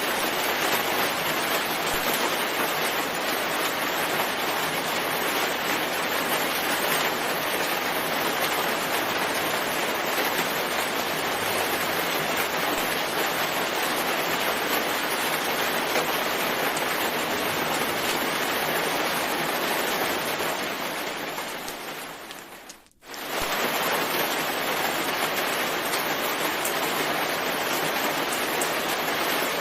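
Steady heavy rain. About 20 s in it fades down over a couple of seconds to a brief gap near silence, then returns abruptly at full level.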